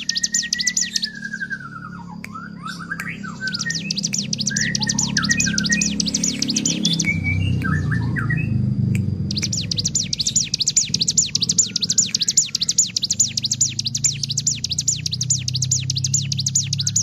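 Hill prinia (ciblek gunung) singing its very fast, drill-like high trill, broken twice by a few seconds of lower twittering notes, over a steady low hum.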